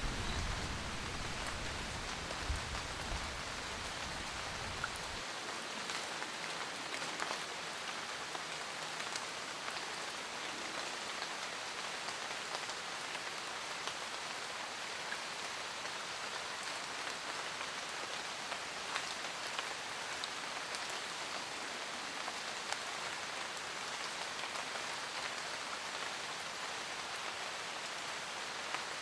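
Steady rain falling on a surface, an even hiss with scattered drops ticking. A low rumble sits under the rain for the first few seconds and cuts off suddenly about five seconds in.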